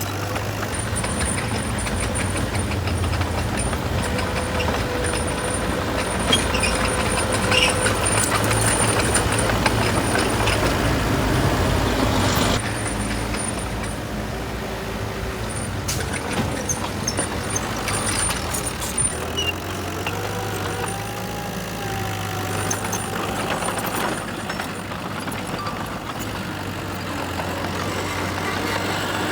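Heavy diesel engine of construction machinery running, louder for the first twelve seconds or so, then dropping sharply to a lower, steadier level.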